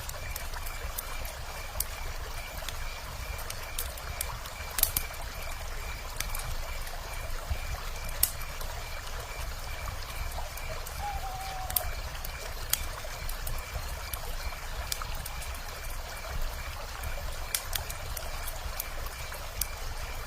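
Wood fire crackling, with sharp pops every second or two, over the steady rush of flowing river water. A high, evenly pulsing chirp runs underneath, and a single short falling owl call comes about eleven seconds in.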